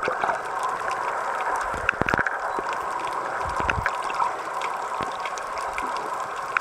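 Underwater sound picked up by a snorkeler's camera: a steady muffled water hiss with many scattered sharp clicks and a few low thumps.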